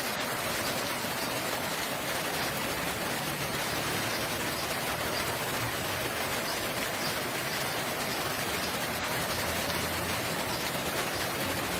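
Rain falling steadily, an even wash of drops with no change in strength.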